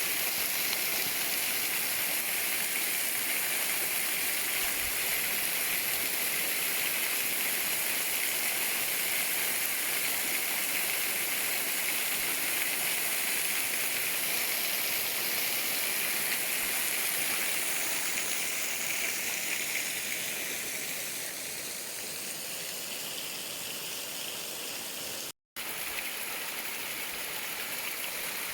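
Water of the Schleierfälle waterfall rushing and splashing steadily. It eases somewhat about two-thirds of the way in, breaks off for a moment near the end, then goes on a little quieter.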